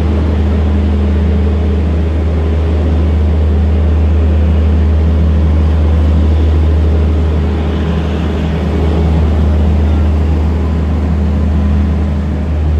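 Passenger train departing and rolling past close by, pulled by an electric locomotive: a steady low hum under the clatter and rumble of coaches on the rails. About eight seconds in, the hum eases and the rushing wheel-and-rail noise grows.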